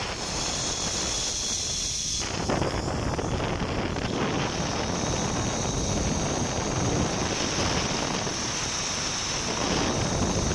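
Wind buffeting the microphone of a rider on a zip line: a steady, dense rushing noise with a steady high hiss above it.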